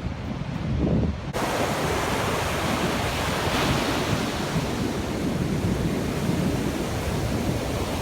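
Ocean surf washing onto the beach, with wind rumbling on the microphone. The broad hiss of the surf comes in suddenly just over a second in and then holds steady.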